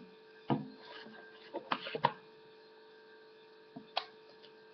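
A few light clicks and taps of small objects being handled, likely paint containers and a brush being picked up and set down, over a steady electrical hum.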